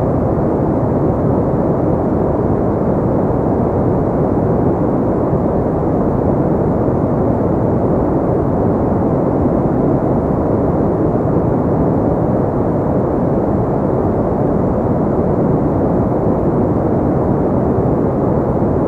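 Steady, deep noise-machine sound: a synthetic white-noise track filtered to a low, muffled hiss with no change or pattern.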